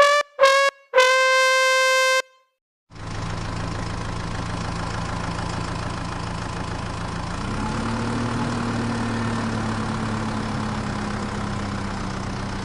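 A vehicle horn honks three times, two short blasts and then a longer one. After a brief pause a motor starts and runs steadily, its pitch rising slightly about halfway through.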